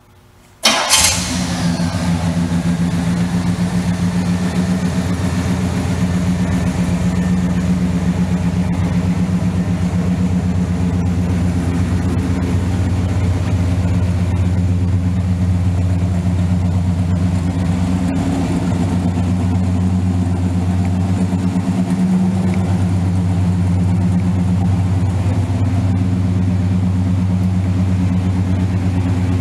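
A 1969 Pontiac Grand Prix Model J's 400 cubic-inch V8 fires up about a second in, then idles steadily.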